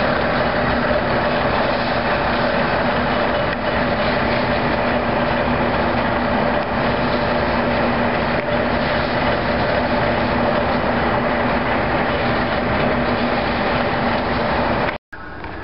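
A loud, steady engine drone with a constant hum, cutting off abruptly near the end.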